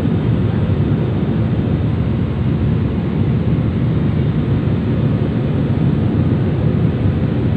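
Steady low roar of an airliner heard from inside the passenger cabin: engine and airflow noise, even in level throughout.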